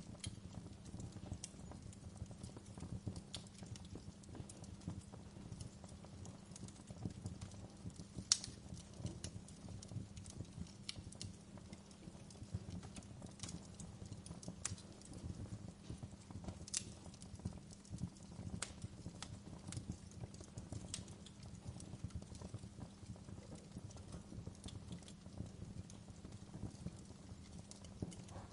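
Wood fire crackling: scattered sharp pops and snaps over a steady low rumble, with two louder pops about eight seconds in and again about eight seconds later.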